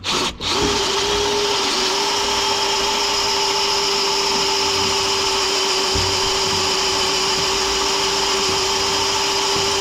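Power drill running steadily under load, boring through a water pipe for a tapping saddle. It starts about half a second in, holds one steady pitch, and stops suddenly just before the end.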